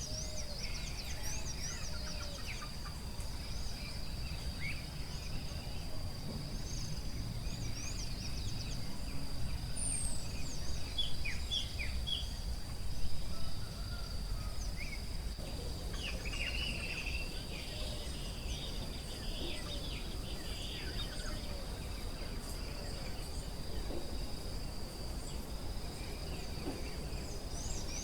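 Forest ambience: a steady high-pitched insect drone with many short bird chirps and calls over a low background rumble, briefly louder about halfway through.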